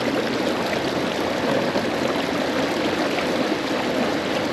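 Steady rushing of water along the hull of a kayak under way.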